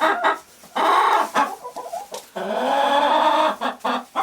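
Domestic hens clucking and calling in a coop, with a short call about a second in and a longer drawn-out call from about two and a half seconds in.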